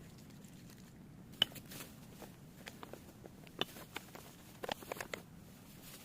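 A few scattered light clicks and crackles, irregular, over a faint low background hum; the sharpest click comes about a second and a half in.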